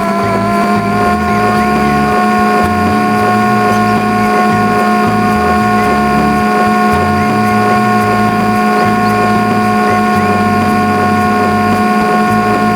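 Ceiling fan motor running flat out with a steady whine. Its pitch rises a little over about the first second as it gets up to speed, then holds.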